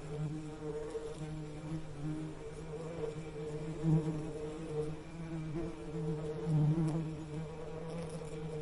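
Bees buzzing in a steady low drone, the hum swelling and fading as bees pass close, loudest twice, about four and nearly seven seconds in.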